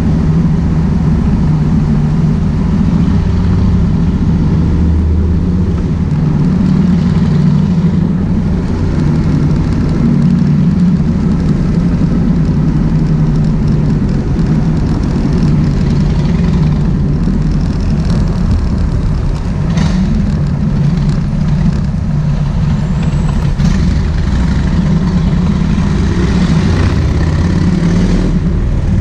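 Kawasaki VN1600 Mean Streak's V-twin engine running steadily while the bike is ridden, a loud low exhaust note.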